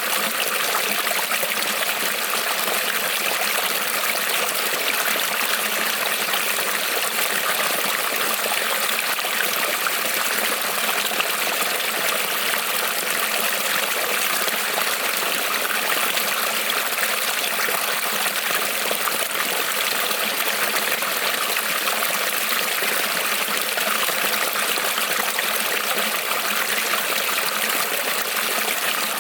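Creek water rippling and trickling over stones, a steady, even rushing.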